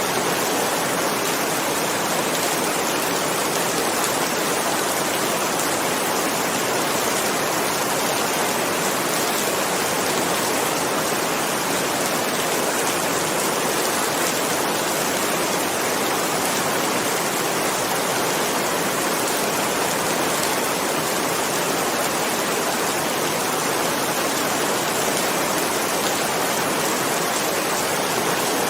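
Steady rain falling, an even unbroken hiss with no thunderclaps.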